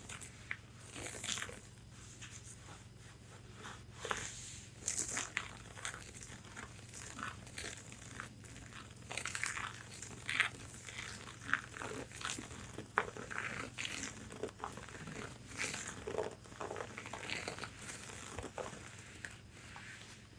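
Long fingernails tapping and scratching on a corset's fabric bodice: irregular quick taps and crisp scratchy rustles, over a faint low hum.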